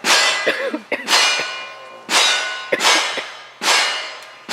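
Steel targets ringing as they are struck, a sharp metallic clang about once a second, each ringing tone fading away before the next.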